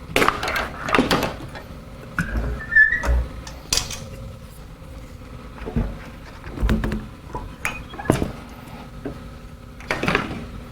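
Parts of an EXAIR EasySwitch industrial wet-dry vac being handled during its tool-free changeover from wet to dry mode: a run of irregular knocks and clunks, with a brief high squeak about three seconds in.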